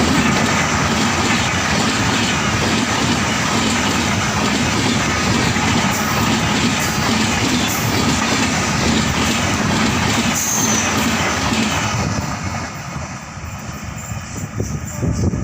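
Express train's passenger coaches rushing past at speed, their wheels clattering rhythmically over the rail joints. About twelve seconds in the sound falls away sharply as the last coach passes.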